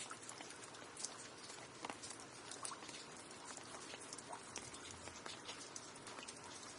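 Steady rain, a soft even hiss with many scattered individual drops ticking sharply on a hard surface.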